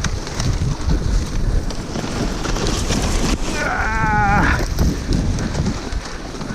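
A dog whining once, a high, wavering whine about a second long, over steady wind noise.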